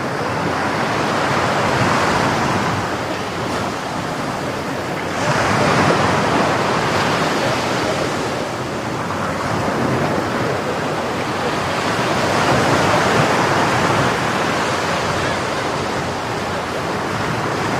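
Rough sea surf: large waves breaking and washing up the beach, the rush rising and falling in swells every few seconds.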